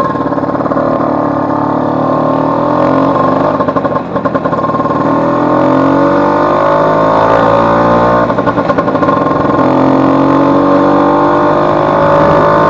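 Vespa 150's two-stroke single-cylinder engine pulling on a test ride, its pitch climbing steadily through three stretches with a brief dip about four seconds in and again past eight seconds, as when shifting up a gear. The engine has just been rebuilt after its elastic (cush-drive) pinion broke, and the rider judges it to be running perfectly.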